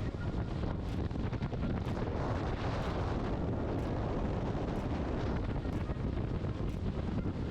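Wind buffeting the microphone aboard a boat under way at sea, over a steady rush of water and boat noise.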